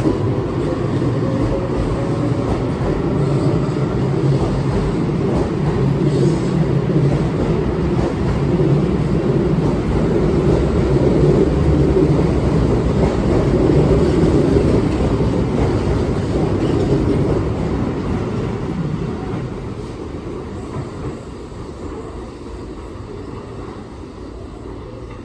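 Keihan 6000 series electric train pulling out of a station. The motor whine rises in pitch as it accelerates, and the rumble of the cars passing grows louder, then fades as the train moves away in the last several seconds.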